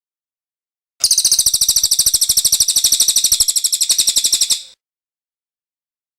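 Cililin songbird giving one high-pitched, rapid chattering trill of evenly repeated notes. It starts about a second in and stops sharply about three and a half seconds later.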